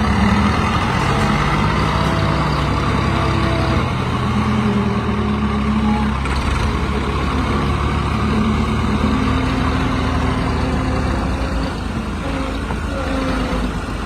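Tractor engine running hard under load, its pitch shifting up and down a few times.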